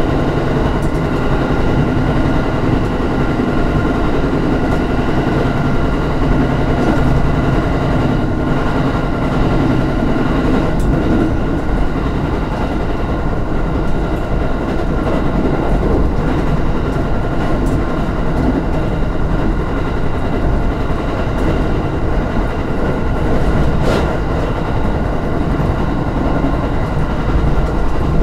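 Electric train running steadily on the rails, heard from inside at the rear cab: wheel and track rumble with a steady whine over it, and a single sharp click near the end.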